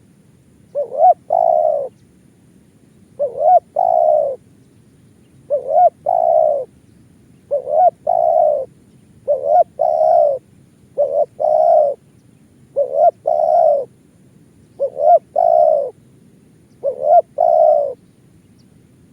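Spotted dove cooing: nine repeated phrases about two seconds apart, each a short note followed by a longer, lower-pitched coo.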